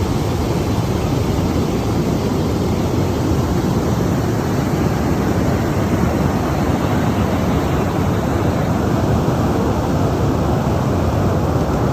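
Bridal Veil Falls pouring: a steady, loud rush of falling water.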